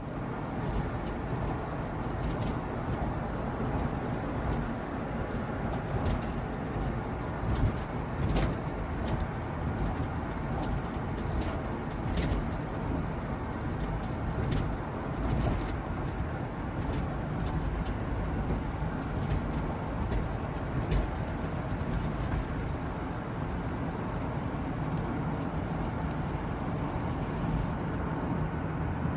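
Chevrolet van driving, a steady road and engine noise with a few sharp clunks from the rear over bumps. The clunks come from a loose rear shock absorber mounting bolt with a lot of play in it, rattling after a shock replacement.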